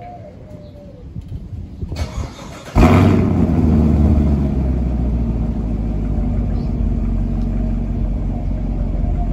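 2019 Camaro SS 6.2-litre LT1 V8 warm start with the exhaust valves in track mode: the starter cranks for about a second, the engine fires up loudly nearly three seconds in, then settles over a couple of seconds into a steady, deep idle.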